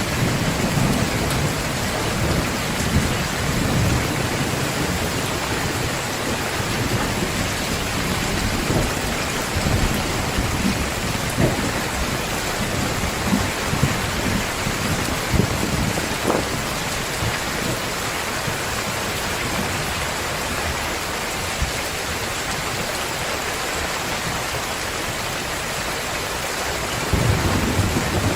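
Heavy rain pouring steadily, with low rolling thunder through the first third that returns near the end. A few sharp taps of drops stand out in the middle.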